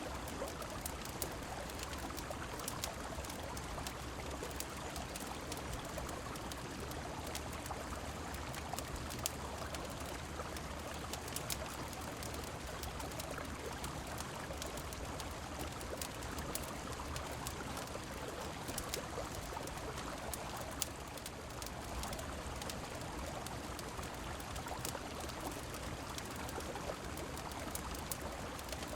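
Steady rush of a river with rain falling, mixed with a wood fire crackling in frequent sharp snaps throughout.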